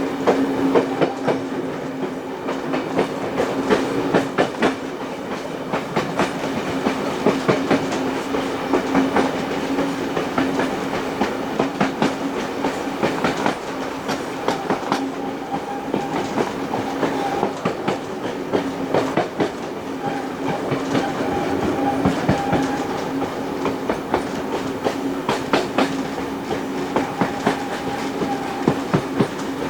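Passenger train hauled by steam locomotive 3801 running at speed: the carriage wheels clatter over rail joints in irregular clicks and knocks, some in quick pairs, over a steady running hum.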